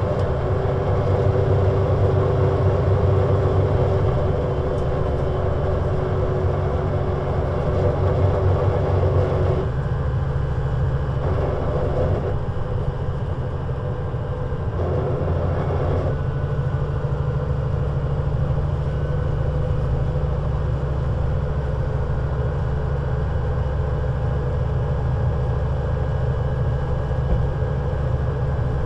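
Scania CN320UA 6x2/2 articulated city bus engine running steadily under way; its note shifts about ten seconds in and again a few seconds later.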